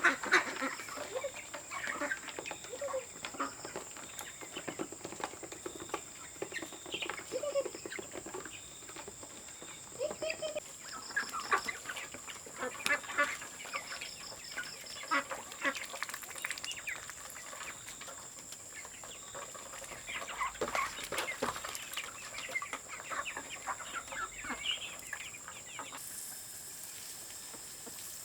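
Chickens clucking and calling, many short calls one after another with brief lulls.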